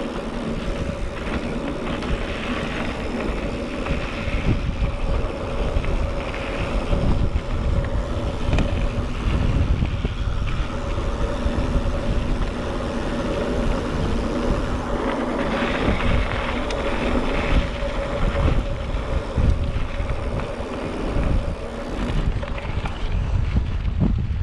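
Wind buffeting the microphone of a camera on a moving bicycle, a dense rumble with a steady hum running through it.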